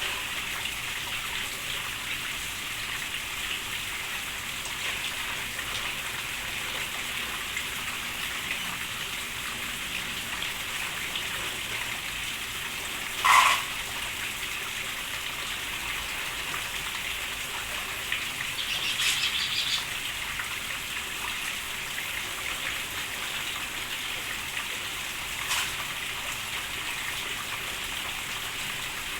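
Steady rain falling, a constant hiss. A single sharp, loud sound breaks in about 13 seconds in. A short burst of high bird chirping follows around 19 seconds.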